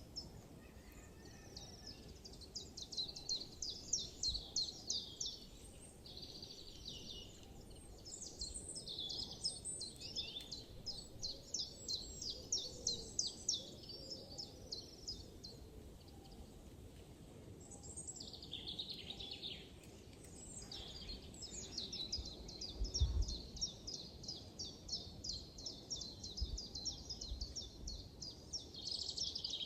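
Small songbirds singing in a forest: several bouts of fast, high chirping trills over a steady low background rumble, with a brief low thump about two-thirds of the way through.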